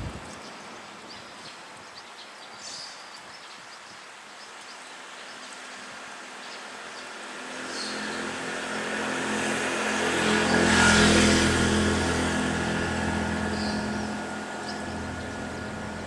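A motor vehicle driving past: its engine hum grows louder over several seconds, peaks, then fades away. A few short, high chirps are heard over it.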